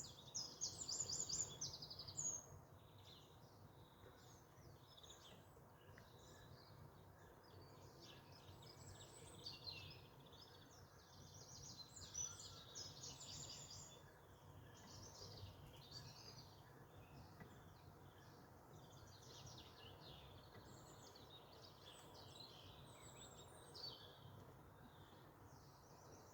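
Small songbirds chirping and singing faintly, several at once, in quick runs of short high notes, loudest in the first two seconds or so. A steady low hum lies underneath.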